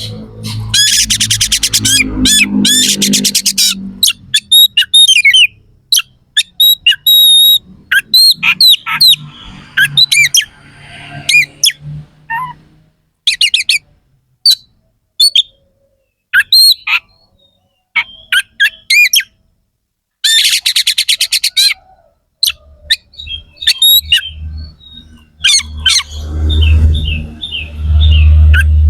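Oriental magpie-robin (kacer) singing hard, full of harsh, rough phrases. It opens with a fast rattling trill, then a string of short sharp whistles and up-and-down glides, with a second fast rattle about two-thirds of the way through.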